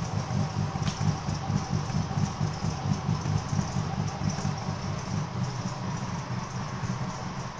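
Mercedes E55 AMG V8 swapped into a C43, idling steadily with a rapid low pulse on its first start after the swap.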